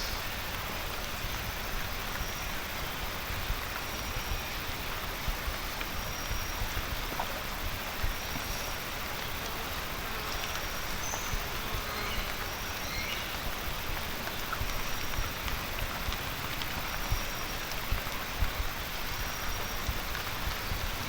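Steady rain falling, with many small drop impacts, and a faint short high chirp repeating about once a second.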